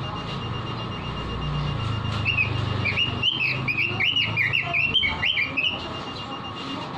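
Red-billed leiothrix (Pekin robin) singing a fast run of clear whistled notes that swoop up and down, starting about two seconds in and stopping shortly before the end.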